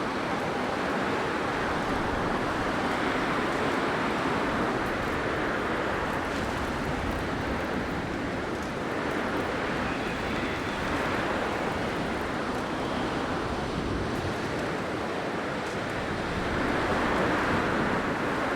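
Blizzard wind blowing as a continuous rushing noise that swells and eases in slow gusts.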